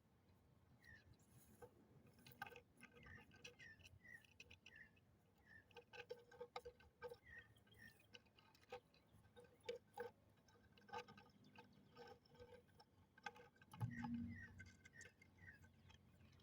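Faint outdoor ambience: small birds give short chirps in runs of three or four, near the start, around the middle and again near the end, over scattered soft clicks.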